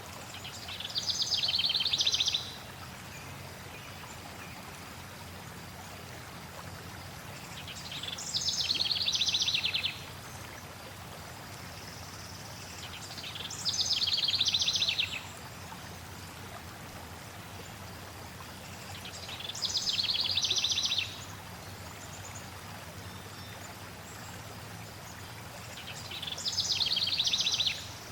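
A songbird repeating the same fast trilled song five times, roughly every six seconds, each phrase swelling over about a second and a half and then stopping abruptly, over the steady rush of flowing water.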